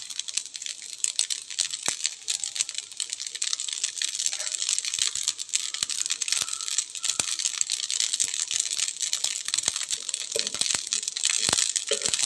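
Ragi flour mixture frying in ghee in a pan: a steady, hissing sizzle, broken by frequent short scrapes and taps of the spatula against the pan as it is stirred.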